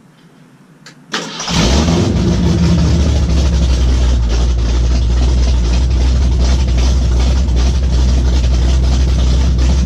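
A 1976 Ford F150's 360 FE V8, fitted with a Holley four-barrel carburettor, long-tube headers and glasspack mufflers, starts suddenly about a second in and settles at once into a loud, steady idle.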